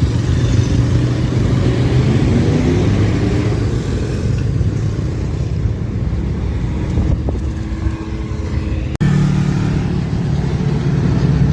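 Motorcycles and cars driving past, engines running, the engine note climbing over the first few seconds as they accelerate. About nine seconds in the sound breaks off sharply and a steadier, deeper engine hum follows.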